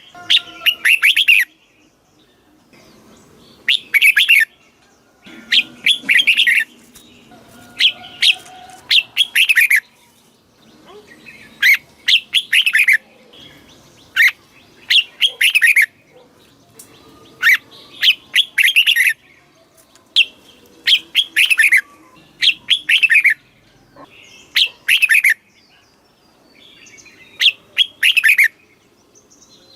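Red-whiskered bulbul singing loud, clear song phrases. Each phrase is a quick run of falling notes, repeated every one to two seconds with short pauses between.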